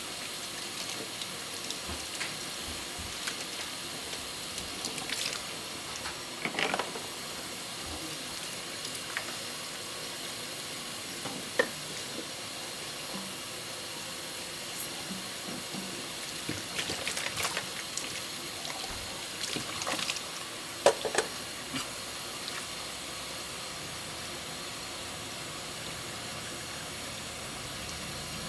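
Tap water running steadily into a kitchen sink while dishes are washed by hand, with a few scattered light clinks and knocks of dishes, the sharpest about a dozen seconds in and again about twenty-one seconds in.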